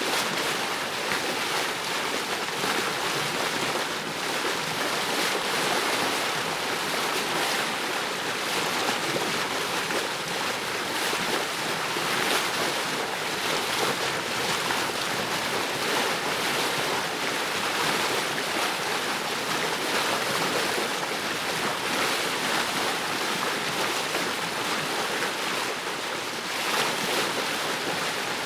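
Ocean surf washing onto a beach: a steady rushing of waves with small rises and falls in level.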